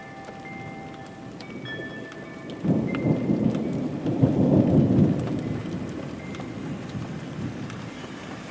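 Steady rainfall with a roll of thunder that breaks in sharply a little under three seconds in, swells to its loudest around four to five seconds, and rumbles away over the next couple of seconds.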